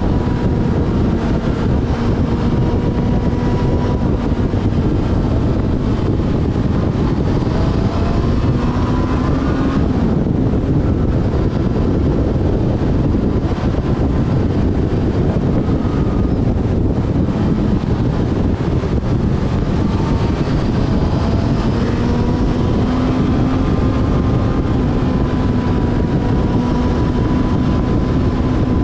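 Yamaha FZ6S Fazer's inline-four engine running on the move, its pitch rising and falling with the throttle, under heavy wind and road noise on the helmet or bike-mounted camera's microphone. For a stretch in the middle the engine note sinks into the wind noise.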